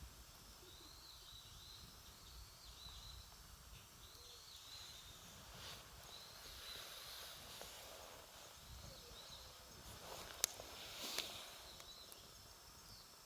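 Faint outdoor ambience with small birds chirping again and again in the background. A sharp pop comes about ten seconds in, followed by a brief crackle, typical of wood burning in a campfire.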